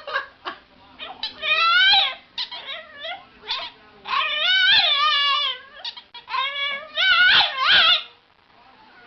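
A dog whining and howling in a series of long, wavering, high-pitched cries, about four of them with short breaks between.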